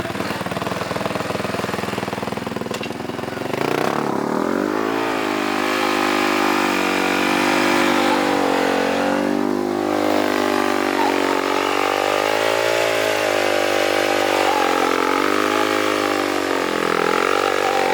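Small off-road vehicle engine revving hard: its pitch climbs about four seconds in, then rises and falls repeatedly as the throttle is worked.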